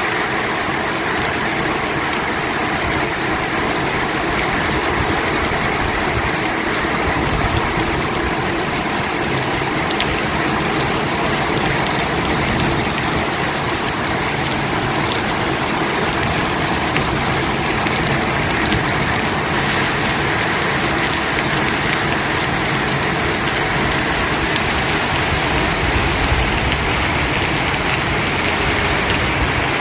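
Heavy rain pouring down in a summer storm: a loud, steady, dense hiss that brightens about two-thirds of the way through.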